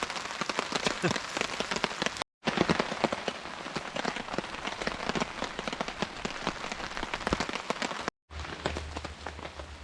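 Steady rain falling, with many sharp individual drops hitting close by. The sound cuts out completely for a moment twice, about two seconds in and about eight seconds in.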